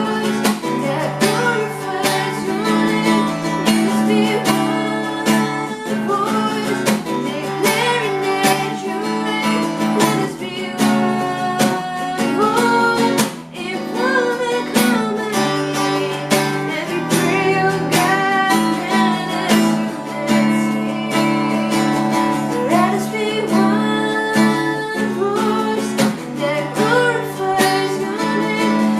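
A worship song with a strummed acoustic guitar accompanying a singing voice.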